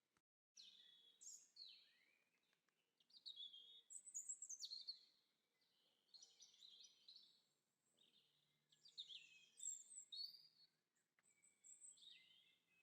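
Songbirds chirping and singing: a string of quick, high phrases that slide down in pitch, with short pauses between them. The sound drops out for about half a second just after the start.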